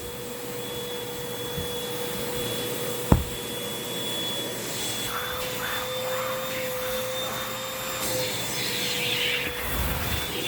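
Hoover WindTunnel 2 Rewind upright vacuum cleaner running steadily with a constant whine, its hose tool scraping and rubbing over sofa cushions from about halfway on. A single sharp knock about three seconds in, as the tool hits something hard.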